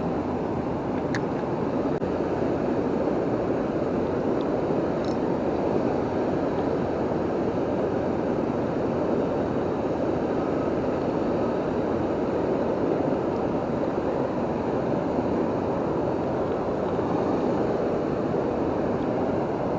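Steady rush of water from the waterfall and river, an even unbroken noise with a faint click about a second in.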